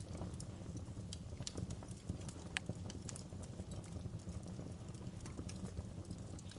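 Wood fire crackling in a fireplace: irregular sharp pops and snaps, one louder pop about two and a half seconds in, over a steady low rumble of the flames.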